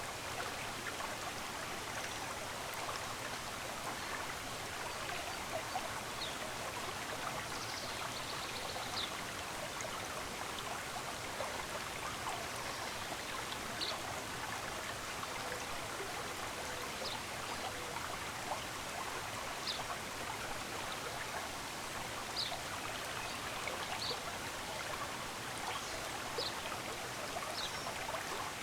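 Steady rushing of a running stream, with short, high bird chirps every few seconds.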